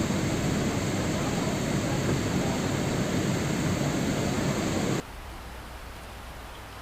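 Steady heavy rain noise that cuts off abruptly about five seconds in, replaced at once by a quieter, duller rain.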